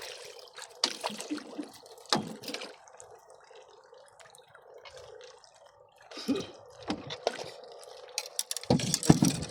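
Water splashing and dripping in irregular bursts over a steady hum. The splashes are loudest in the last few seconds, with a quieter stretch in the middle.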